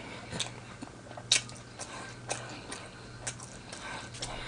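Close-up chewing and biting of crispy fried chicken wings: irregular sharp crunches and mouth clicks, the loudest about a third of the way in, over a steady low hum.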